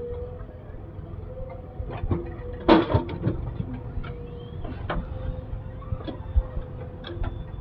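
JCB 3DX backhoe loader's diesel engine running with a steady drone, over scattered knocks and clanks; the loudest, a rattling crash, comes about three seconds in.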